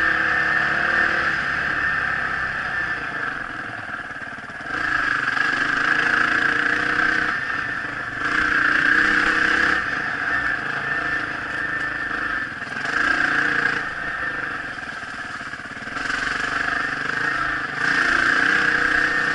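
Dirt bike engine running under throttle while riding, rising and falling in pitch and loudness as the throttle is opened and eased off every few seconds.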